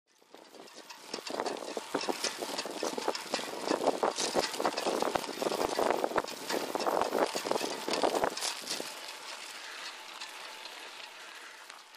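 2012 Mavic Ksyrium Equipe rear bicycle wheel making the unwanted noise its owner is recording: a dense run of ticking and rattling that builds over the first second or two, then eases off after about eight seconds into a fading hiss.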